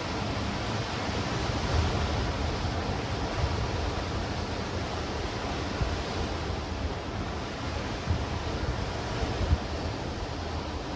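Sea waves breaking and washing over black rocks and stones on a rocky shore, a steady rushing surf, with wind buffeting the microphone in an uneven low rumble.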